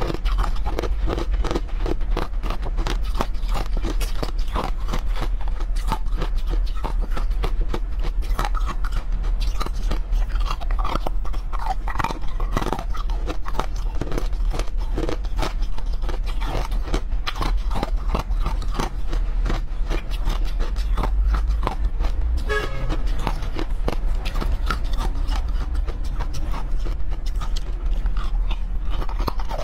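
Close-miked chewing and crunching of hard frozen chunks: a continuous run of small crisp cracks and crunches, with a fresh piece bitten near the end. A steady low hum lies underneath.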